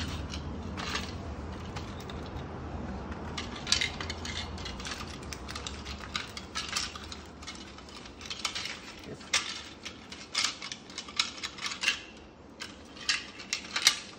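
Irregular small metallic clicks and clinks from hand work on a refrigerator compressor's overload relay fittings, with a low hum underneath that fades out about halfway.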